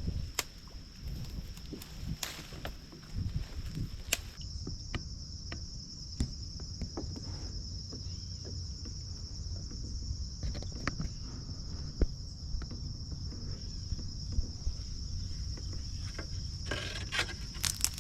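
A steady, high-pitched insect chorus trilling, growing stronger about four seconds in. Underneath is a low rumble of wind on the microphone, with scattered light clicks.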